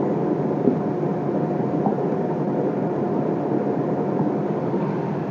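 Steady background noise with a faint hum.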